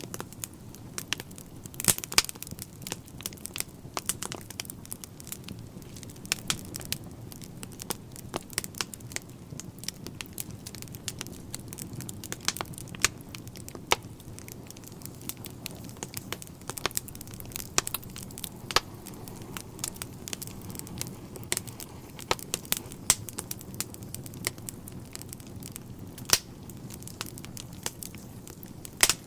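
Wood fire burning in a fireplace: irregular sharp pops and crackles of burning logs over a steady low rumble of the flames.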